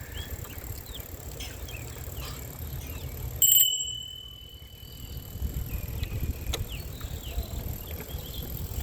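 Riding noise from a bicycle: steady low wind and tyre rumble with small squeaks. About three and a half seconds in, a single bright ring sounds and fades out over a few seconds.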